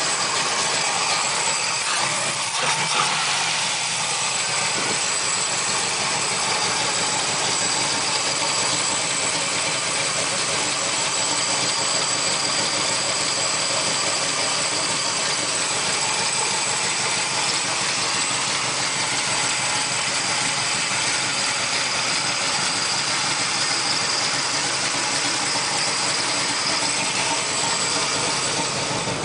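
Chevrolet 396 big-block V8 idling steadily through cast exhaust manifolds, with a really lumpy idle from its Comp camshaft. It is still warming up from a cold start with no choke, and its idle speed is starting to pick up.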